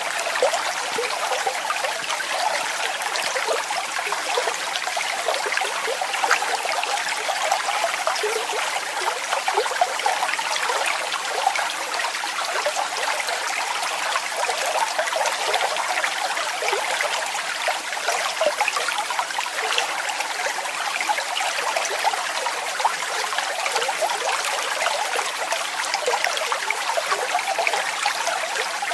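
Waterfall water falling and splashing steadily: a continuous rush made of many small splashes, with little deep rumble.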